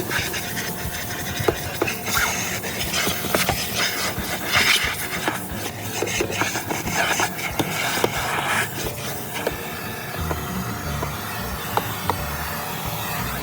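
Continuous rubbing and scraping, with many small clicks and knocks scattered through it.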